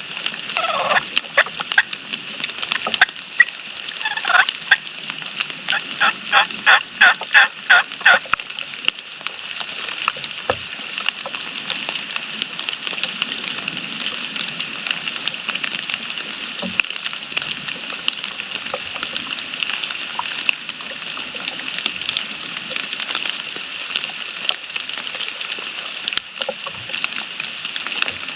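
Turkey calling in the first eight seconds, ending in a run of about ten quick, evenly spaced loud notes, then steady rain patter with scattered drip clicks.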